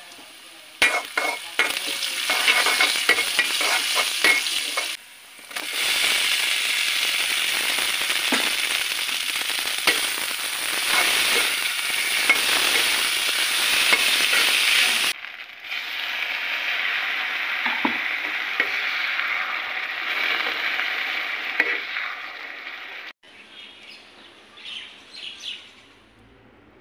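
Onions and crushed cumin sizzling loudly in hot oil in a black iron wok, with a metal spoon scraping and clinking against the pan as they are stirred. The sizzle breaks off briefly a couple of times and is quieter in the later part. Near the end it gives way to quieter, scattered sounds.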